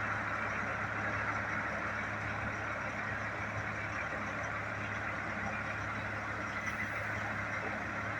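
Steady road traffic noise, an even rush of vehicles and tyres with a low steady hum beneath it.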